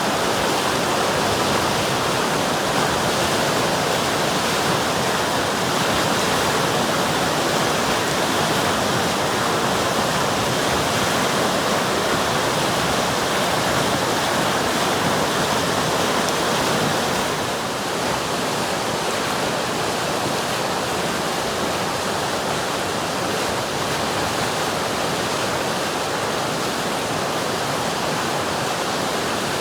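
River water rushing steadily over its bed, an even, continuous wash of noise that dips slightly in level a little past halfway.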